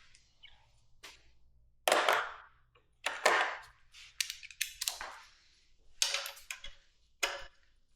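Metal hand tools clinking and clacking as a bolt is undone with an 8 mm wrench or socket: a handful of sharp clinks a second or so apart, with a quick run of clicks in the middle.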